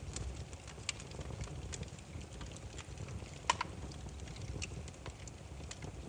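Burning firewood crackling: irregular sharp pops and snaps over a steady low rumble of flame, with one louder pop about three and a half seconds in.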